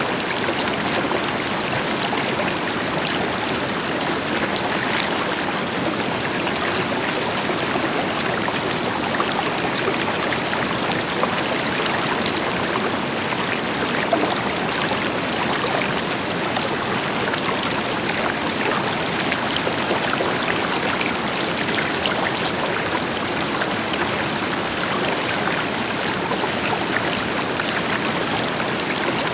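River water flowing over rocks, a steady rushing with small splashes and trickles, over the deeper rush of a distant waterfall.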